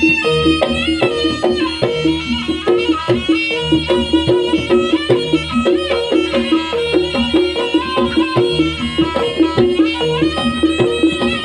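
Live Javanese jaranan pegon ensemble music: a wavering reed melody over repeated struck gamelan notes and hand drums keeping a steady beat.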